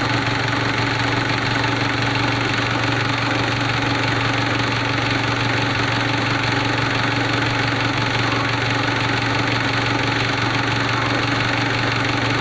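Mitsubishi 4D56 common-rail diesel engine idling steadily.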